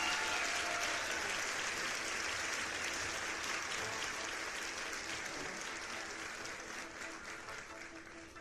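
Applause, gradually fading out toward the end.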